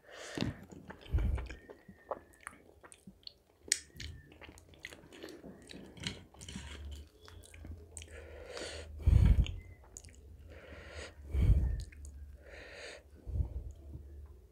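Close-miked chewing of butter chicken and naan: a run of small wet smacks and clicks, broken four times by louder dull thumps.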